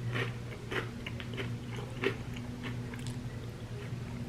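Close-up chewing of crunchy chips covered in queso and sour cream: irregular crunches and wet mouth sounds, with a louder crunch about two seconds in, over a steady low hum.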